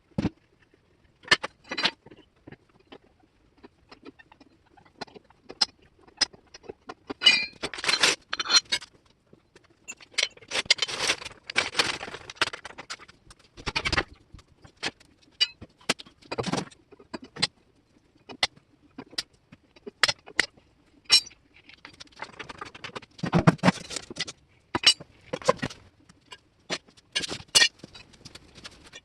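Irregular metal clinks, clanks and knocks of tools and steel parts being handled, with a few short stretches of scraping and rustling in between.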